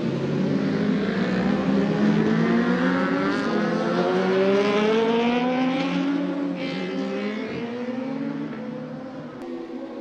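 Racing motorcycle engines accelerating hard, the engine note climbing in pitch for several seconds, then fading away over the last few seconds.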